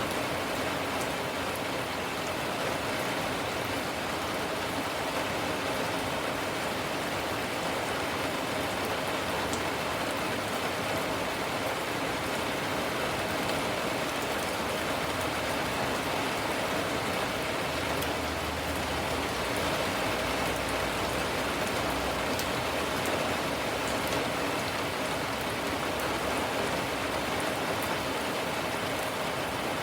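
Steady rain falling on surfaces, an even, unbroken hiss of drops that neither builds nor fades.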